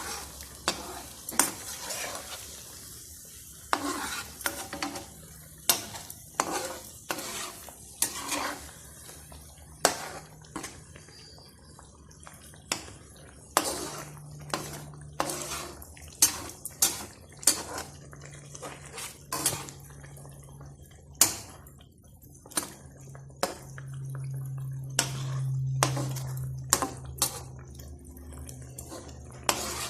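A cooking utensil stirring chicken in chilli paste in a pot, clinking and scraping against the pot in irregular knocks about once a second. A light sizzle in the first few seconds.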